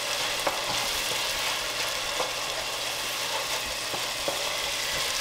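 Scallops sizzling in hot oil in a pot while being stirred with a wooden spoon: a steady frying hiss with a few faint clicks of the spoon against the pot.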